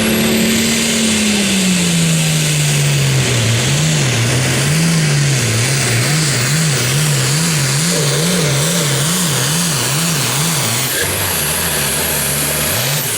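Super Farm pulling tractor's turbocharged diesel engine under full load down the track. Its pitch drops as it bogs, then rises and falls about twice a second as the tractor hops, and near the end it revs up sharply as the driver lets off. The commentator puts the hopping down to a clutch and tire pressure mismatch.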